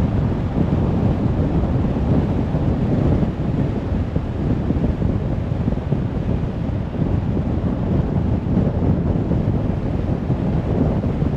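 Steady road noise of a car driving on a motorway: an even rumble of tyres and wind, with no music.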